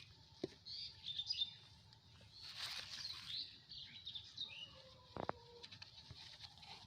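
Small birds chirping in short, high calls, with a brief rustle about halfway through and a sharp click later on.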